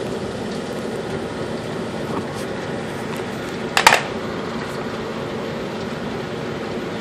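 Homemade waste-oil furnace running, with a steady rushing hum from the burn and its blower fan. A single brief, sharp knock cuts in just before four seconds in.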